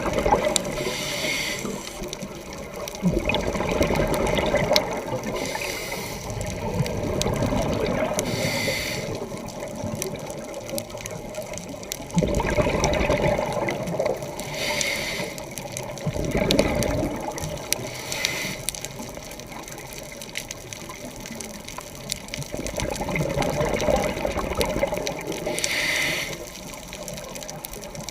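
Scuba diver breathing through a regulator underwater. Exhaled air leaves in bubbling, rushing surges every few seconds, with shorter hisses of inhalation through the regulator between them.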